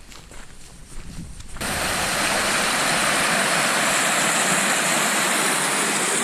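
Faint footsteps on a trail, then about a second and a half in a sudden switch to the loud, steady rush of creek water flowing.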